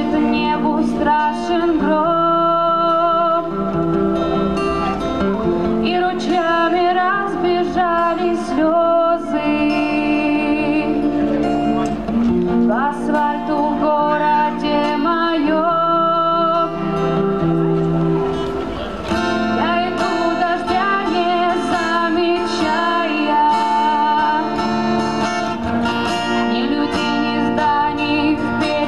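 A woman singing a song in Russian to her own acoustic guitar, which plays a steady strummed and plucked accompaniment.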